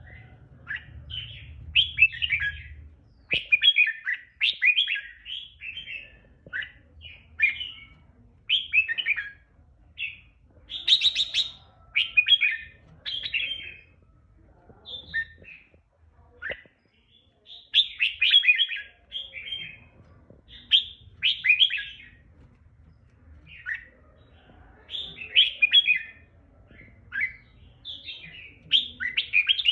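Red-whiskered bulbul singing: short, rapid, warbling phrases with quick up-and-down pitch sweeps, repeated every second or two with brief pauses between them.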